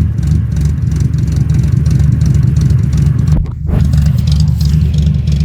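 Car engine running with a loud, deep exhaust rumble, holding steady apart from a brief dip about three and a half seconds in.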